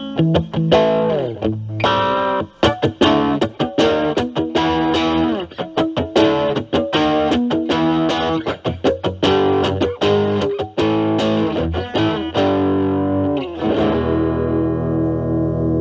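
Stratocaster electric guitar played through an Ibanez Super Metal mini distortion pedal into a Marshall Valvestate amp, distorted picked notes and short riffs. Near the end a chord is struck and left ringing.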